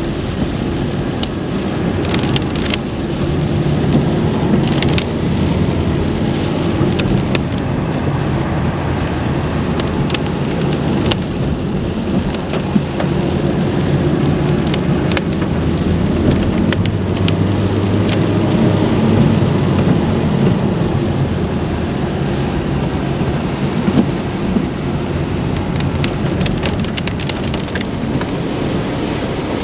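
Rain falling on a moving car, heard from inside the cabin, over steady low road and engine noise, with scattered sharp ticks of drops striking the body and windscreen.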